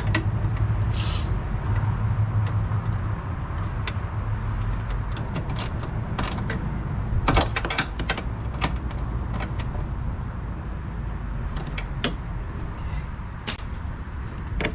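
Scattered metallic clicks and knocks as a front strut assembly is worked into place on the car, over a steady low hum. A quick cluster of knocks about seven seconds in is the loudest.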